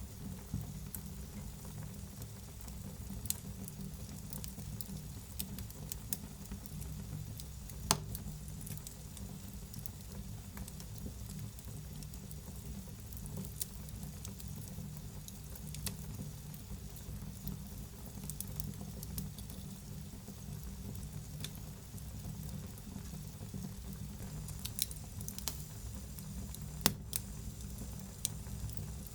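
Wood fire burning in a fireplace, with a steady low rumble of flame and scattered sharp crackles and pops. The loudest pops come a few seconds in and near the end.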